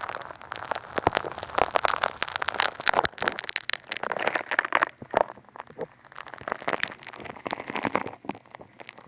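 Funny Foam bath soap being squished and rubbed against a binaural dummy-head microphone's ear, crackling and popping densely and unevenly throughout.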